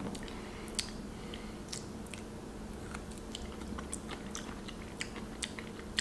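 A person chewing a bite of Ponderosa lemon rind with its thick pith, giving irregular small crunches and clicks over a faint steady hum.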